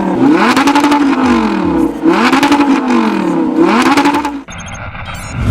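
Audi R8's 5.2-litre V10 through a Capristo aftermarket exhaust, revved three times, the pitch climbing and falling back each time. The sound cuts off suddenly about four and a half seconds in.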